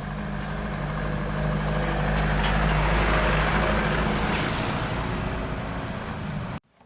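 A motor vehicle's engine running, with a steady low hum that swells to a peak about three seconds in and eases off again. It cuts off abruptly near the end.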